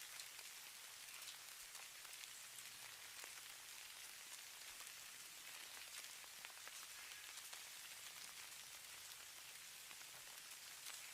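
Falling snow pattering faintly: a soft, even hiss with many fine ticks.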